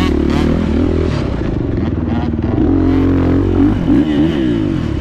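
Beta 430 four-stroke single-cylinder dirt bike engine under load, its pitch rising and falling as the throttle is opened and closed several times.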